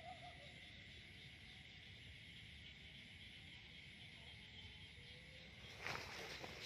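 Faint, steady chorus of insects trilling, with a high trill that comes in even bouts about once a second. A brief rustle about six seconds in.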